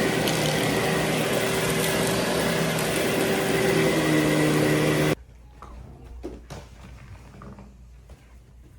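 Vacuum cleaner running steadily with a constant hum, cutting off suddenly about five seconds in; faint knocks and handling sounds follow.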